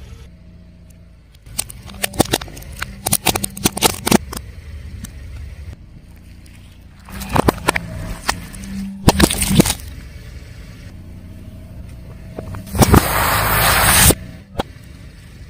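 Car tyre rolling over and crushing crunchy objects: three clusters of sharp cracks and crunches, the last a dense burst of breaking, over the low steady hum of the car's engine.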